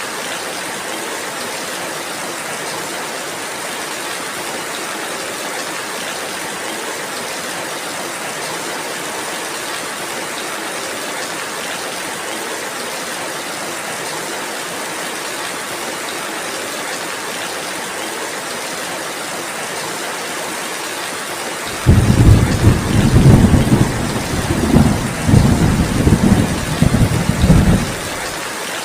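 Steady rainfall. About three quarters of the way through, a loud, deep rumble of thunder rolls in several swells for about six seconds, then cuts off abruptly.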